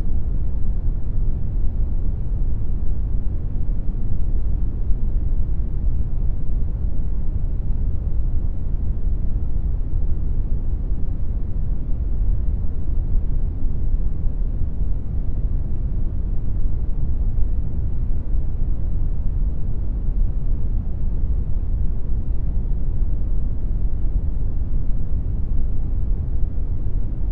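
Synthetic brown noise generated in Audacity: a steady, deep rushing hiss, strongest in the low end, with no change in level.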